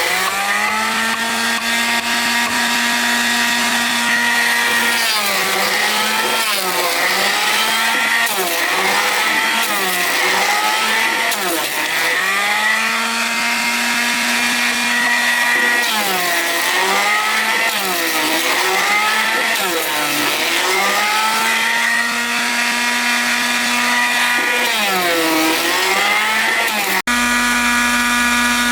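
Power tool's motor running at high speed, its pitch sagging and recovering again and again as it is loaded cutting into wood. The pitch is steady near the end.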